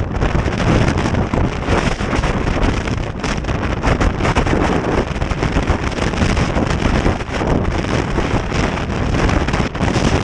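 Strong gusting wind buffeting the microphone, a loud continuous rushing noise that swells and dips with the gusts.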